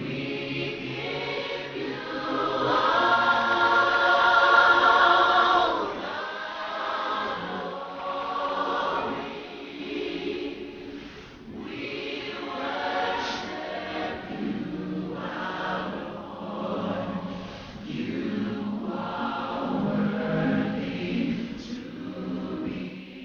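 A group of voices singing together in phrases, loudest a few seconds in.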